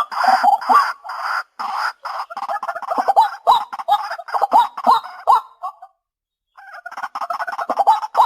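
White-breasted waterhen calling: a fast, loud series of short repeated notes, many with a quick upward flick, breaking off briefly about six seconds in and then resuming.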